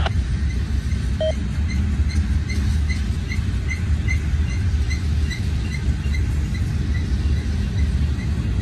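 Loaded coal train's hopper cars rolling past, a steady low rumble of steel wheels on rail. A faint high squeak repeats about three times a second over the rumble.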